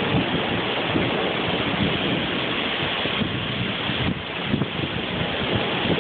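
Strong storm wind blowing, buffeting the phone's microphone in uneven gusts over a steady rush of noise.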